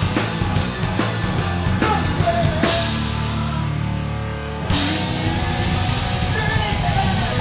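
Live rock band playing a loud grunge number: drum kit and distorted electric guitars. A cymbal crash comes a little before three seconds in and the band holds a ringing chord, then the full band crashes back in just under five seconds in.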